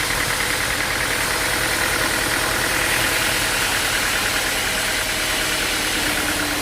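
An engine running steadily, with a fast, even pulsing.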